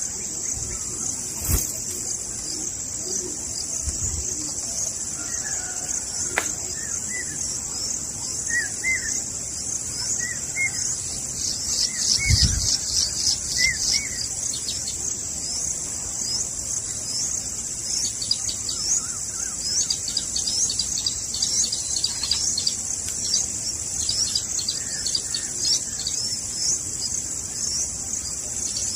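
Birds chirping over a steady high-pitched drone of insects such as crickets. Quick runs of high chirps come about a third of the way in and again through the second half, with a few low thumps here and there.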